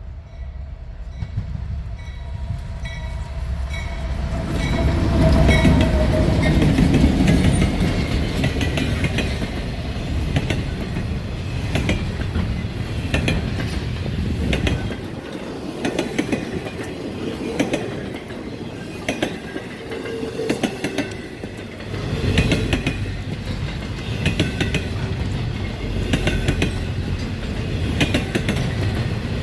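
Freight train rolling past: a low rumble builds over the first few seconds and peaks, then the wheels keep up a steady, regular clicking over the rail joints as the cars go by.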